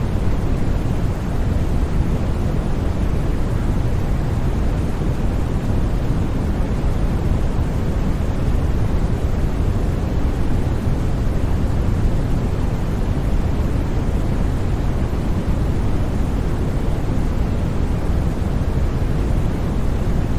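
Steady, unbroken sleep-masking noise sold as white noise: an even hiss weighted heavily toward the low end, with no changes or sudden sounds.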